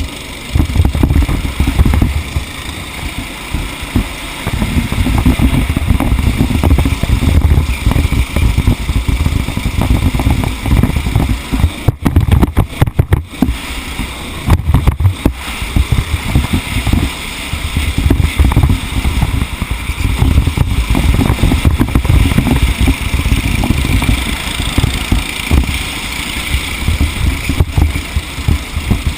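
Engine of a racing vehicle running hard, with a heavy, uneven rumble.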